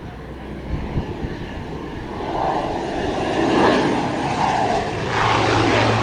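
Pilatus PC-12/45 single-engine turboprop on approach to land, its engine and propeller sound growing louder. A steady low hum joins in about five seconds in.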